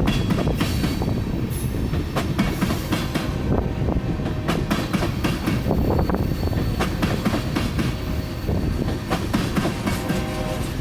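Oil tank cars of a freight train rolling past: a steady rumble, with the wheels clicking irregularly over rail joints and a faint thin squeal underneath.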